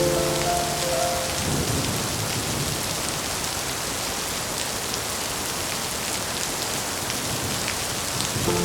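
Steady rain falling on a surface: an even hiss with scattered faint drop ticks, and a low thunder rumble beneath. Held notes of soft background music fade out in the first second and a half and come back at the very end.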